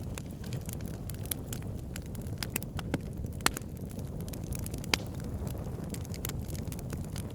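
Wood campfire crackling, with irregular snaps and pops, two of them sharper about three and a half and five seconds in, over a steady low rumble.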